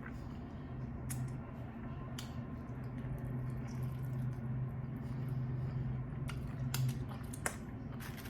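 Close-miked eating of sauced chicken wings: wet squishing and lip-smacking clicks, more frequent near the end, over a steady low hum.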